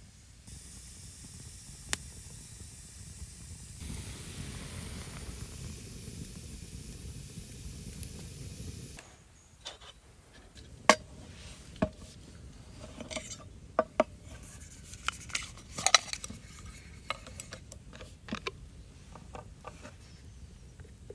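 Steady sizzling-like hiss for several seconds, then a run of sharp clinks and knocks of cookware and metal utensils, a couple of them much louder than the rest.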